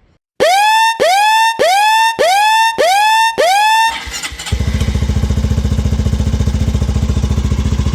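Six identical rising tones, each sweeping up and then holding, repeat about every 0.6 s. From about four seconds in, a Honda Hunter Cub's single-cylinder engine starts and settles into a steady idle with an even beat.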